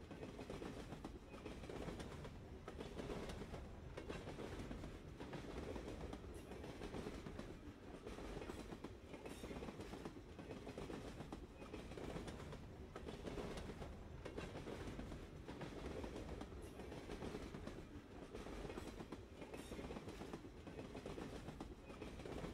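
Ambient recording of a train running on the tracks: a steady, low rumble with faint, irregular clicks.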